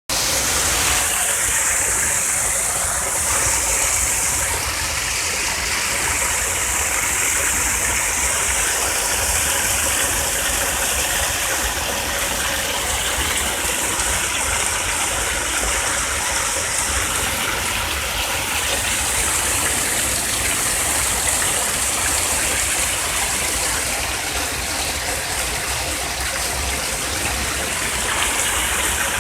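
Steady rush of running water, a stream or falls, with a high-pitched hiss that swells and fades every few seconds.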